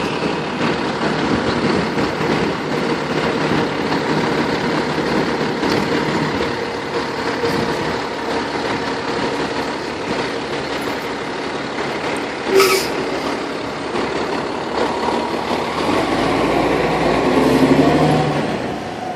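A fire engine's diesel running steadily, with one brief sharp air-brake hiss about two-thirds of the way through. Near the end the engine note rises and falls and grows louder.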